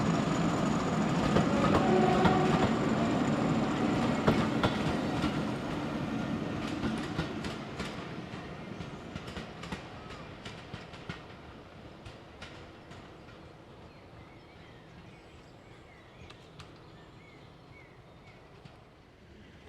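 Diesel-hauled train passing and running away into the distance, its wheels clicking over the rail joints. The sound fades steadily, leaving only faint clicks near the end.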